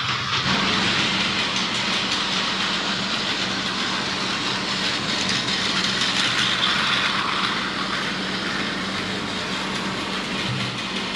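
Battery-powered Plarail toy train running on plastic track, a steady motor whine with a continuous fine rattle of the wheels.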